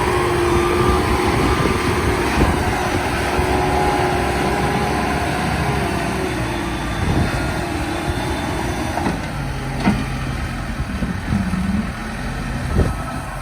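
JCB 215E backhoe loader running, its diesel engine working steadily with a whine that slowly shifts in pitch, and a few clunks in the second half.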